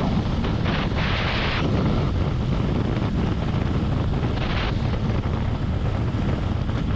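Wind rushing over the camera microphone on a moving Harley-Davidson Road Glide, with the motorcycle's V-twin engine and road rumble steady underneath; brief stronger gusts come about a second in and again near the middle.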